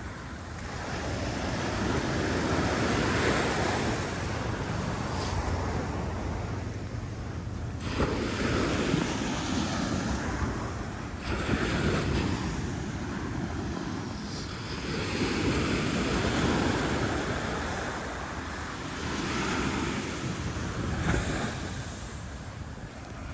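Ocean surf: waves breaking and washing up the beach, swelling and easing every few seconds, with wind rumbling on the microphone.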